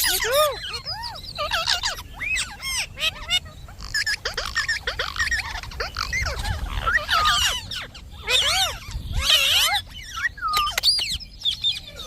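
Indian ringneck parakeet chattering and calling: quick runs of high chirps and squawks that rise and fall in pitch, with short pauses between runs.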